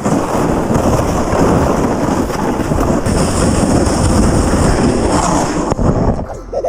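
Loud, steady rumbling and rattling from a Traxxas XRT RC truck driving over snow while towing a sled, dropping off about a second before the end.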